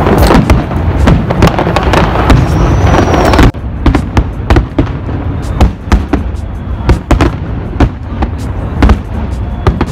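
New Year's fireworks bursting in rapid, overlapping bangs. About three and a half seconds in, the sound drops suddenly, leaving fewer, more spaced-out bangs.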